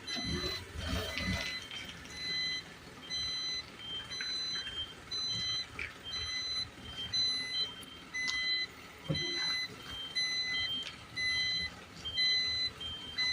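Isuzu garbage truck's reversing alarm beeping steadily, about one and a half high beeps a second, as the truck backs up. A low rumble sounds in the first second or two, and a single knock about nine seconds in.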